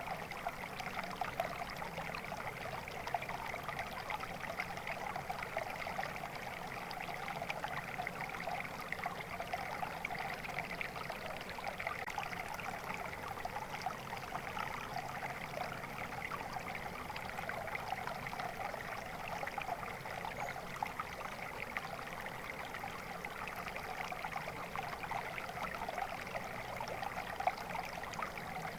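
Water flowing steadily in a stream, a constant babbling and trickling over stones.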